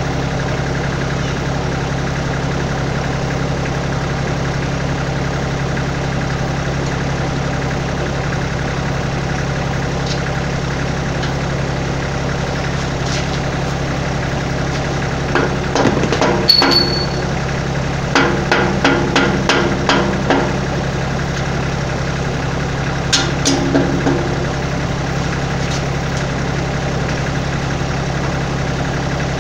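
Kioti tractor's diesel engine idling steadily. Over it come three short spells of sharp metal knocks and clanks, one a quick run of about six, from work on the loader's bucket cylinder pin.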